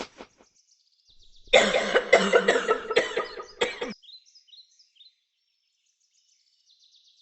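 A person, sick with a cold, coughing in a short fit of about five coughs, over faint birdsong chirping that carries on around them.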